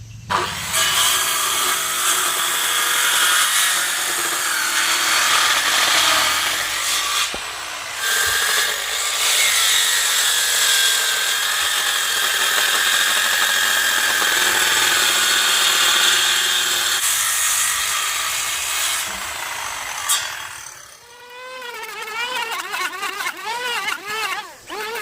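Handheld power tool working wood, running loud and steady for about twenty seconds with two short breaks, then giving way to a quieter, wavering sound near the end.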